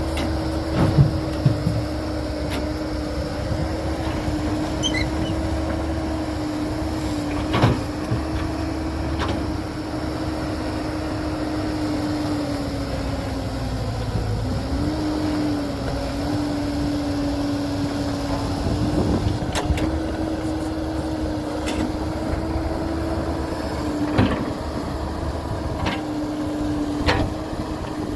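Heavy diesel construction machinery running at steady engine speed, a constant drone with a low rumble, the pitch dipping briefly about halfway through. A few sharp knocks sound over it, about half a dozen in all.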